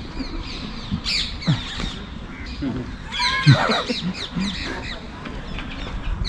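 Birds squawking and chirping in quick, short calls, with a louder burst of overlapping calls about three seconds in.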